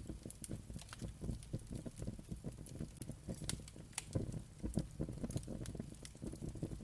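Wood fire crackling: frequent irregular sharp pops and snaps over a low, uneven rumble of burning logs.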